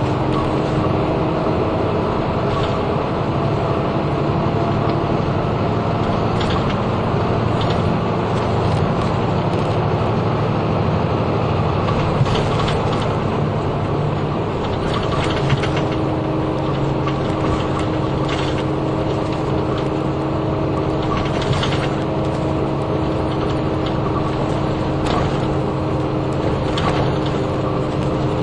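Interior running sound of a route bus under way: the diesel engine runs at a steady pace over constant road noise, with small interior rattles and clicks. The engine note changes slightly about halfway through.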